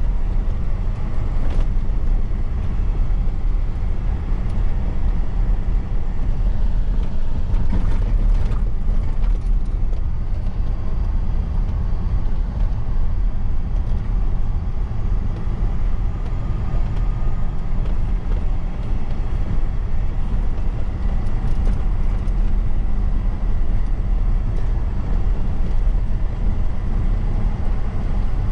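A truck driving along a road: a steady, loud low engine drone and road rumble, with a few faint clicks or rattles.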